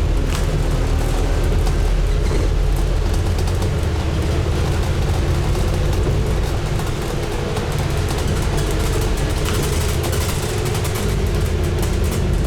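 Interior sound of a Scania N250UD double-decker bus under way: its five-cylinder diesel engine running steadily, with a constant rush of road and body noise.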